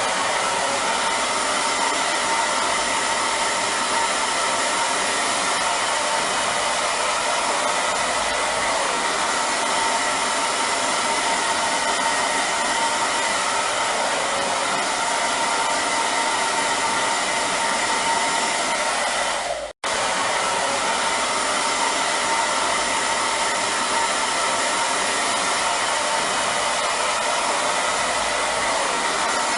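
Electric hair dryer running steadily: an even rush of blown air with a steady whine from its fan motor. The sound cuts out for an instant about twenty seconds in, then continues unchanged.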